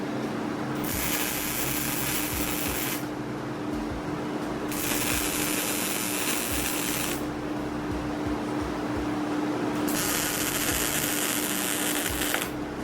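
Three bursts of hissing crackle, each about two and a half seconds long, from an electric arc working steel, over a steady hum.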